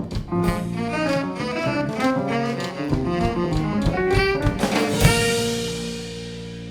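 Live jazz band playing a busy closing phrase, ending about five seconds in on a sharp accented hit and a held final chord that fades away.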